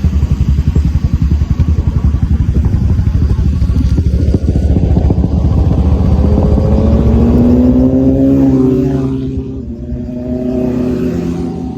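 Royal Enfield Classic 500's single-cylinder engine running under way: a low, rapid pulsing at first, then revs rising over a few seconds before easing off about nine seconds in.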